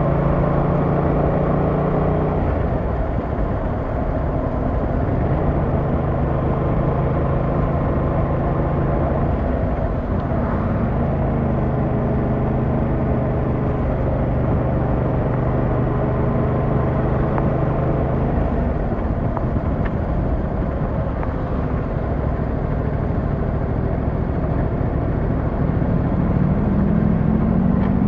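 Yamaha MT-07's 689cc inline-twin engine running on the move, holding a steady note that drops and resettles a few times with throttle and gear changes, then rising as it accelerates near the end.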